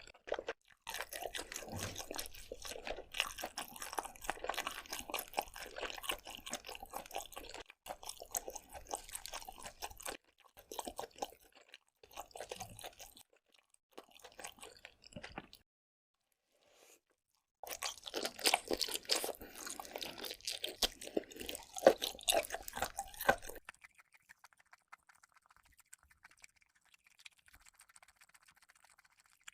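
Close-miked eating of lobster and octopus: wet chewing and crunching in two long stretches with a short silent pause between them, then only a faint hiss for the last several seconds.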